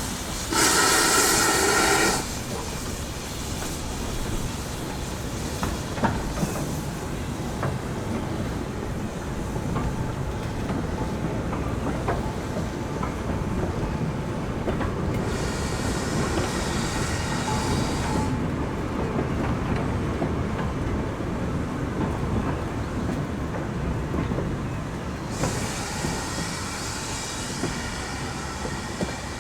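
GWR steam locomotive and train: a loud whistle blast of about a second and a half just after the start. The train then runs on with a steady rumble on the rails, and two stretches of hissing steam each last a few seconds.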